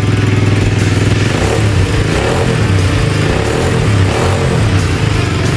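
A 200cc engine, stock for ten years, running just after being brought back to life. It runs steadily at first, then about a second in its note turns uneven and wavers up and down.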